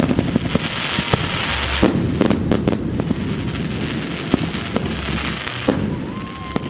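New Year's fireworks going off: a rapid, irregular string of bangs and pops over a continuous crackling hiss.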